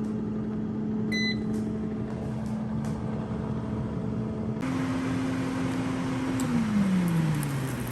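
Air fryer running with a steady fan hum, and a short double electronic beep about a second in. At about four and a half seconds a louder hiss sets in, and near the end the fan's hum slides down in pitch as the fan winds down.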